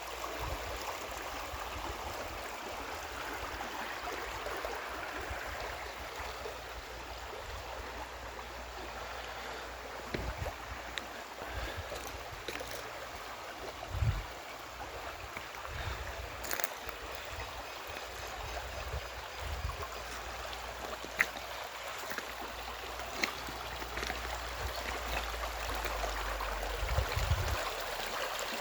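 Water flowing in a stream, a steady rushing hiss, with a few brief low rumbles and a few sharp clicks.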